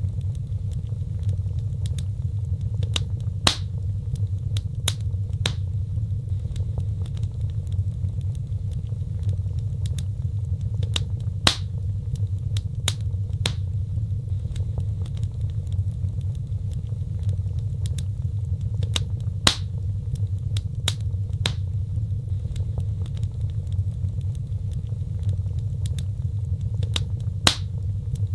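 Wood fire crackling: irregular sharp pops and snaps, a few of them louder, over a steady low rumble of the burning.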